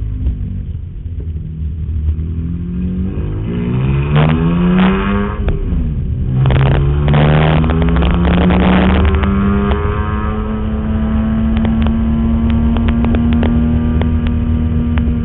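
BMW E46 M3's straight-six engine heard on board, driven hard: the note dips briefly, climbs, drops sharply at a gear change about five and a half seconds in, climbs again, and holds a steady high pitch over the last five seconds. The car has a clutch delay valve fault that the owner says shows classic CDV symptoms.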